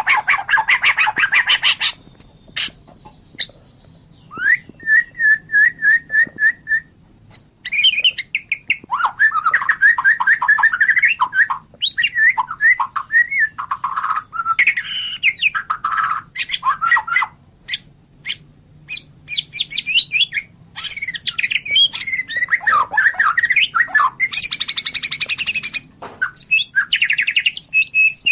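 White-rumped shama (murai batu) singing loud, varied phrases of rapid trills, chattering notes and clear whistles, with short pauses between phrases. One phrase is a run of quick repeated notes on one pitch.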